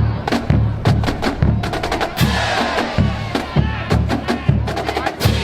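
Marching band drumline playing a cadence: rapid sharp snare and rim clicks over regular low bass drum hits.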